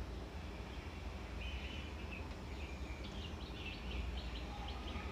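Faint bird chirps, a run of short high calls from about a second and a half in until near the end, over a steady low hum.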